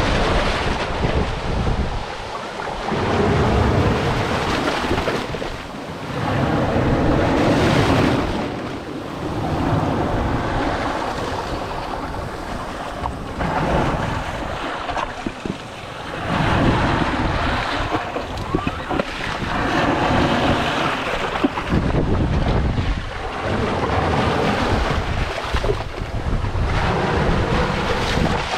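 Sea waves washing against the shore with wind buffeting the microphone, a rushing noise that swells and eases every few seconds.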